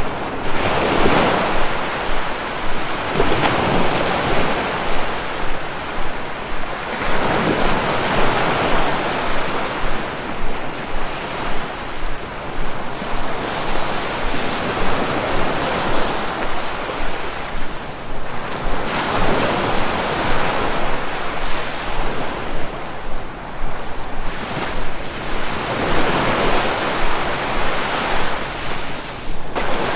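Sea waves breaking on the shore. The surf swells and recedes in repeated surges every few seconds.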